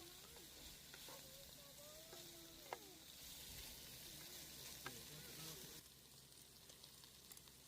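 Faint sizzling of food frying in a pan: a soft, steady hiss that drops away about six seconds in. Faint distant voices and a couple of light clicks sound under it.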